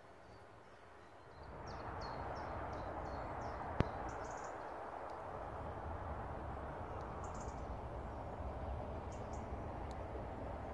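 Birds chirping in short, high calls that come in quick runs, over a steady rushing background noise that comes in about a second and a half in. A single sharp click comes near the four-second mark.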